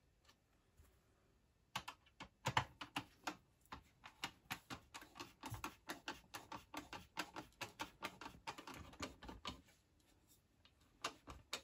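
A screwdriver turning T15 Torx screws that hold the picture tube into the Macintosh 512Ke's metal chassis: a faint run of short clicks, about three or four a second. The clicks start about two seconds in, stop a little before the end, and two more come just before the end.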